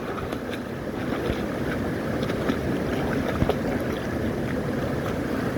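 Steady rushing of a stream's water, with a few faint clicks.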